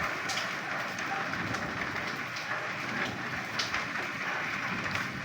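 Steady rain falling, with scattered individual drops striking a surface, and a few faint short frog calls in the background.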